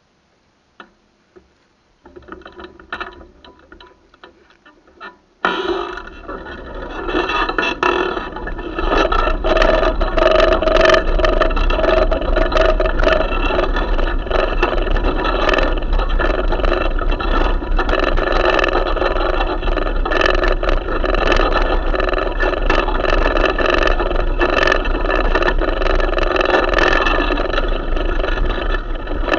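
Strong pre-storm wind buffeting the microphone: a few handling clicks, then the wind noise sets in suddenly about five seconds in and stays loud, a deep rumble with constant crackle.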